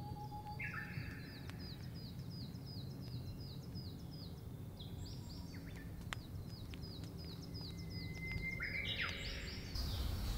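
Small forest birds calling: a songbird repeats a quick high chirp about three to four times a second in two runs, with some scratchier calls in between, over a faint low background rumble that grows louder near the end.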